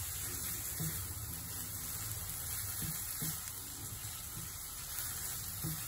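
Chicken liver and gizzard pieces frying in masala in a nonstick pan, a steady sizzle, with a few soft scrapes of a silicone spatula as they are stirred.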